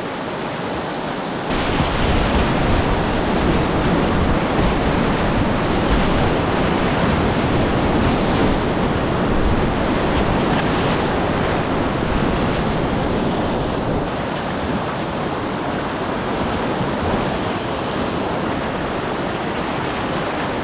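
Whitewater rapids of an alpine river rushing around a kayak, a loud steady rush that steps up louder about a second and a half in, with wind and water buffeting the camera microphone.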